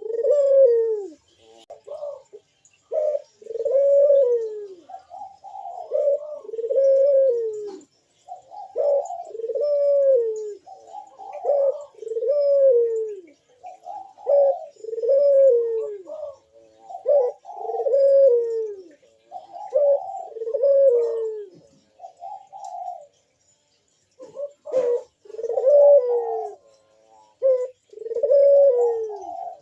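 Burung puter (collared dove) cooing over and over in a fast, steady run, each coo dropping in pitch at its end; a short pause comes about three-quarters through, followed by a sharp click. This is the eager breeding-mood cooing used as a lure to make other doves answer.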